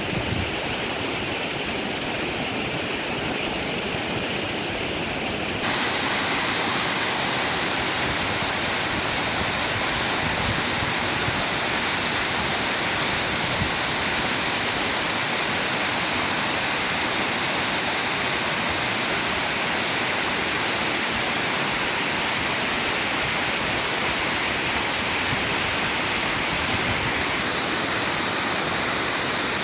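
Waterfall: a steady rush of falling water, which steps up louder and brighter about five and a half seconds in.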